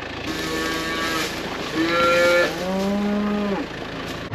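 Cattle mooing, three drawn-out calls one after another, each held at a steady pitch, over the low hum of an idling engine.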